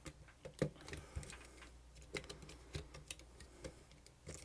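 Irregular small clicks and taps of camcorder parts being handled and fitted during reassembly, the sharpest about half a second in.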